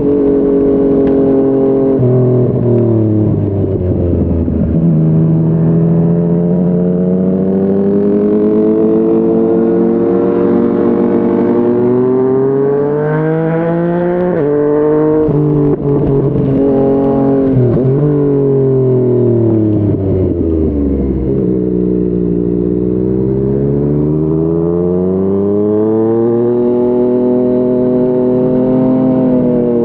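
Yamaha MT-09's three-cylinder engine through a Yoshimura R55 slip-on exhaust, accelerating and easing off through the gears. Its pitch climbs and falls several times, with quick drops at gear changes.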